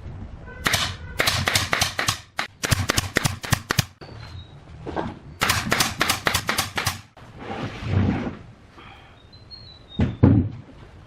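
Rapid hammering in three quick runs of sharp blows, about six a second, followed near the end by a single heavier knock.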